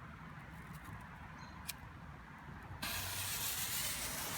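A lit firework fuse hissing as it burns: a steady hiss that starts suddenly about three seconds in and runs for over a second.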